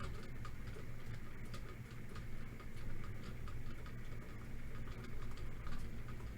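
Faint, irregular light clicks over a steady low hum.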